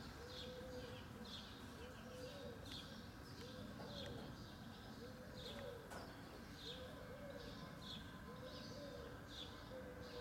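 Birds calling in a garden: a high chirp repeated evenly, about one and a half times a second, over a lower call of a few short notes that recurs every second or so, with a steady low hum of background noise.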